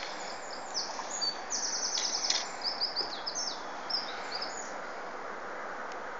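A songbird singing a phrase of high notes with a fast trill, lasting about four seconds before it stops, over a steady background hiss.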